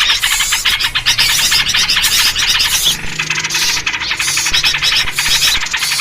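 Dense, rapid chattering of many small birds calling in agitation: a bird-lure recording built on yellow-vented bulbul (trucuk) calls.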